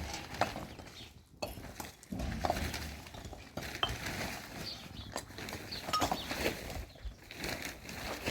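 Irregular clinks and light knocks of hard objects being handled, with a few brief metallic pings.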